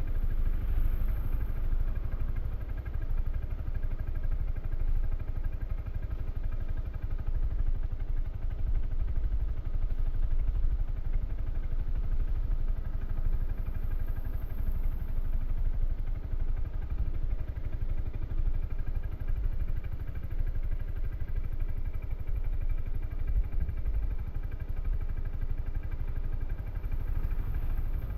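2013 Suzuki Burgman 400 maxi-scooter's single-cylinder engine running steadily through its stock exhaust while riding, with no sharp changes in speed or level.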